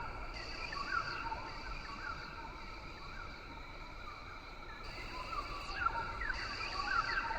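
Rainforest ambience: a steady, high-pitched chorus of insects with many short rising chirps from calling animals, over a low rumble.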